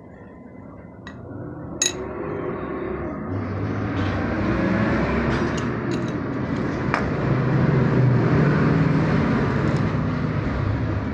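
A motor vehicle engine running nearby, growing louder over the first few seconds and easing off near the end, with a few light metallic clicks.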